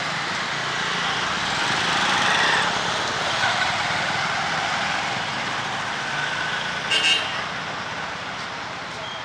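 Urban street traffic: a motor vehicle passing under a steady hiss, with a brief sharp click about seven seconds in.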